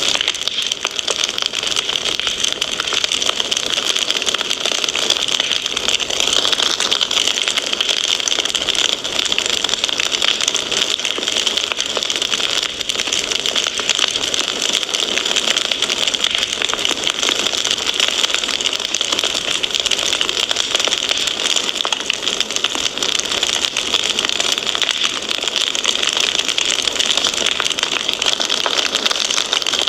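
Fire crackling steadily: a dense stream of small pops and snaps over a continuous hiss, with no single loud crack standing out.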